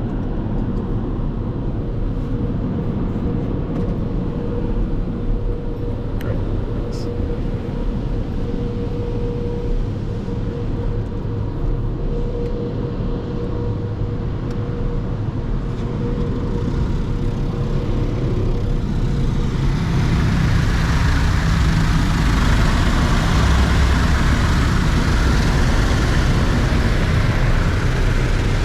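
Automatic tunnel car wash working over a car on its conveyor: a steady low rumble with a faint steady hum, then from about two-thirds of the way through a louder rushing noise that carries on to the end.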